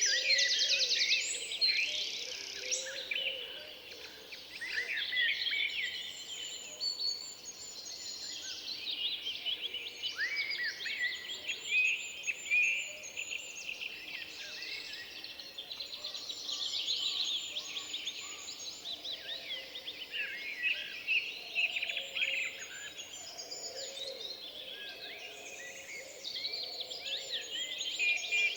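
Several forest songbirds singing at once: many overlapping chirps, whistled phrases and trills, with a fast, evenly repeated trill right at the start.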